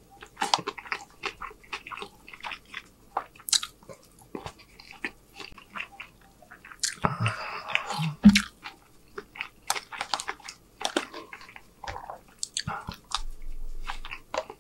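Close-miked eating: chewing, biting and wet mouth sounds of someone eating bourbon chicken and rice, with short clicks throughout and a louder, denser stretch of noise about seven seconds in.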